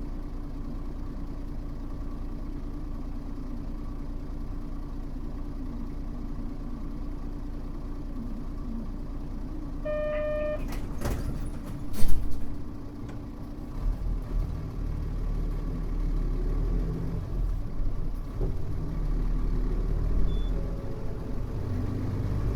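Cabin sound of a Mitsubishi Fuso U-MK618J route bus's diesel engine idling steadily. About ten seconds in there is a short pitched electronic tone, then a few sharp clicks and a loud clack. After that the engine note deepens and grows louder as the bus pulls away.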